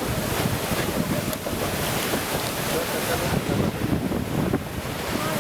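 Wind buffeting the microphone over the steady running noise of a moving narrow-gauge train car on the Durango & Silverton steam railroad.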